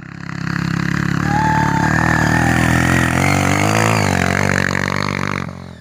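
Off-road motorcycle engine running hard under load as the bike climbs a steep hill, swelling in about half a second in, its pitch dipping and rising again around the middle, then fading away near the end.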